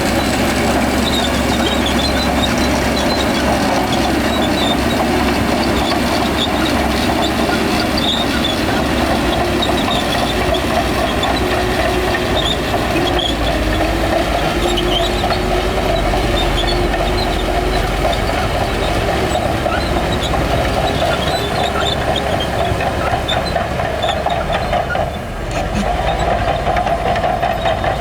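Shantui crawler bulldozer working: its diesel engine and steel tracks running steadily and loudly, with a brief drop in level near the end.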